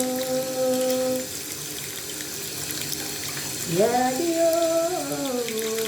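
A person's voice singing long, wordless held notes: one note fades out about a second in, then after a pause the voice slides up into a new note and steps down through a few more. A steady hiss runs underneath.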